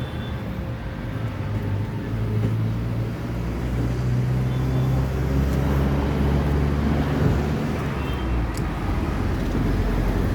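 Mahindra XUV700's 2-litre petrol engine running with a low steady hum, growing slightly louder around the middle.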